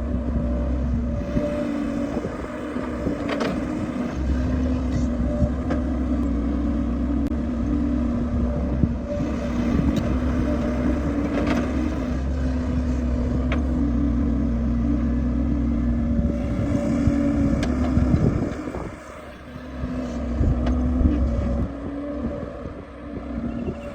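Excavator's diesel engine running steadily under working load, with a few sharp knocks. The engine eases off about three-quarters of the way through, then picks up again.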